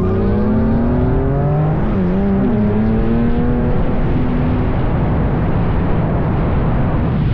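Drift car engine revving hard, its pitch climbing, dipping briefly and climbing again, then held high. About halfway through, the engine note gives way to a loud, steady rushing noise.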